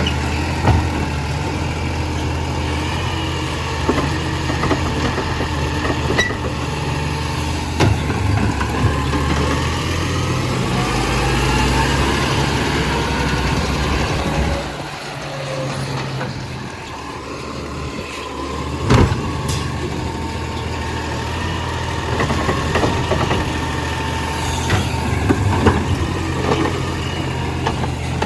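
Compost collection truck running, its engine humming steadily, with a rising whine partway through, then a dip and a few sharp clanks later on.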